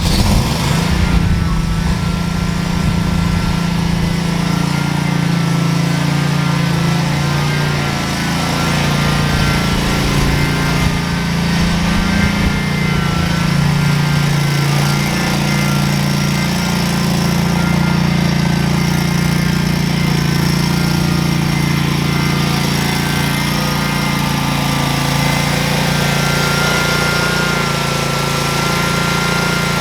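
Small engine of a 36-inch mower running just after starting, its speed rising and falling as it is driven.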